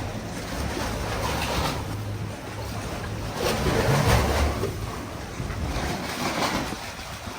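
Ocean swell washing against a moored sailboat, surging up and down in waves, loudest about two and four seconds in, with wind rumbling on the microphone.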